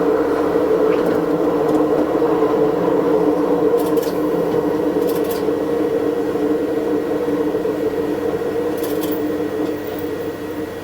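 Diesel railcar running along the track, heard from the cab: a steady engine and running hum with a few short high clicks, easing a little near the end. The recording is played back at double speed.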